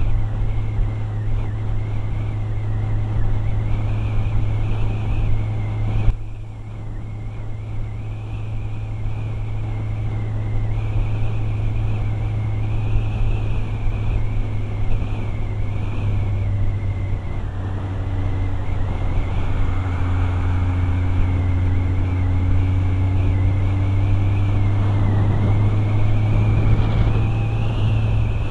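Motorcycle engine running at road speed under wind and road noise, with a high, wavering whine on top. The sound dips briefly about six seconds in, then builds again.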